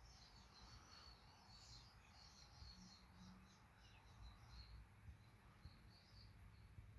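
Near silence with faint, quick high chirps in scattered clusters that die out about five seconds in, like a small bird chirping, over a faint low hum.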